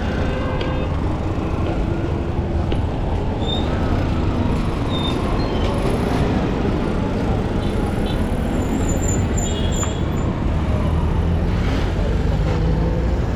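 City street traffic: a steady rumble of passing vehicle engines and tyres, with faint voices and a few brief high chirps around the middle.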